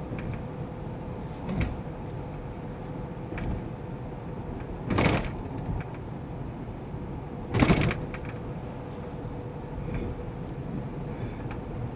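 Steady road and engine noise of a GAZ Sobol van driving at highway speed, with a steady hum. Two short, loud whooshes come about five seconds in and again two and a half seconds later.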